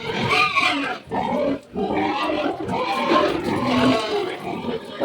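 Several pigs in a pen calling together: a dense, continuous din of overlapping pig cries, with two brief lulls in the first two seconds.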